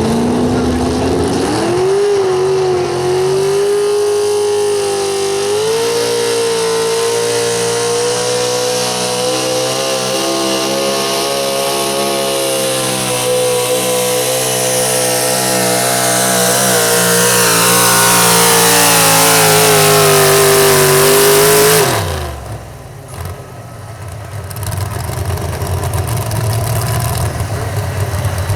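Super stock 4x4 pulling truck's engine under full throttle during a pull: it climbs to high revs in the first couple of seconds and holds there loud and steady. About 22 seconds in the throttle drops off suddenly, and the engine falls back to a much lower, quieter running sound.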